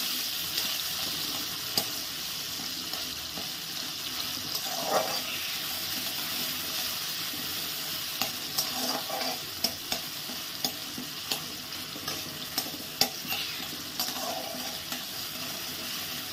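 Chopped tomato sizzling in hot mustard oil in a kadai, steady frying hiss, with a spatula scraping and tapping the pan now and then as the tomato is stirred and softens down.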